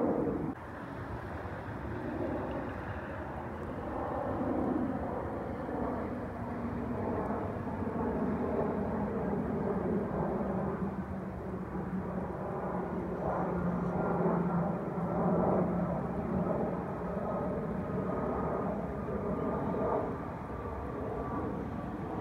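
Jet airliner on landing approach: a steady engine rumble with a high whine that slowly falls in pitch over the second half as the aircraft passes.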